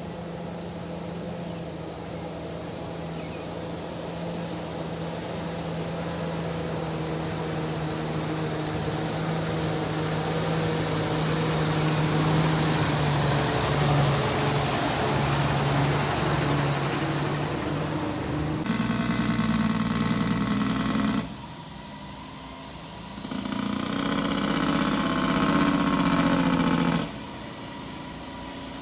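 Truck engine running steadily, slowly growing louder over the first part. After abrupt changes, it comes in shorter, louder stretches with quieter gaps between.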